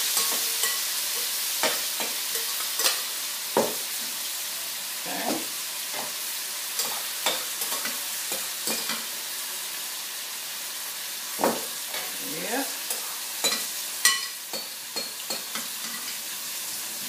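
Marinated beef cubes sizzling as they stir-fry in a hot wok over a gas flame: a steady frying hiss broken by irregular sharp clicks and pops.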